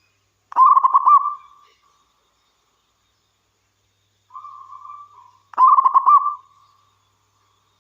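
Zebra dove (perkutut) cooing: two quick rolling coo phrases about five seconds apart, the second led in by a softer coo.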